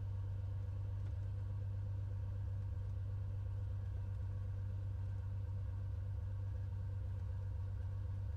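Steady low drone of a Cessna 182 Skylane's six-cylinder O-470-based piston engine and propeller running at low taxi power, mixture leaned.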